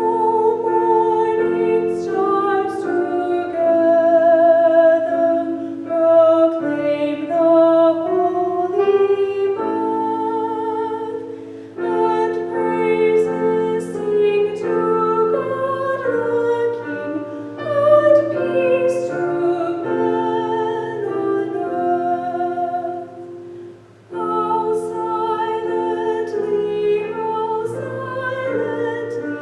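A female soloist sings a hymn with wide vibrato over piano accompaniment, pausing briefly twice between phrases.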